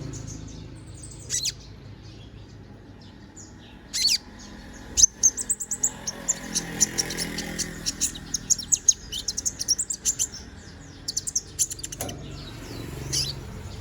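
Konin (kolibri ninja sunbird) singing in rapid, high chirping bursts. A few single sharp notes come first, then long runs of fast chips in the second half. The bird is in heavy molt and singing freely.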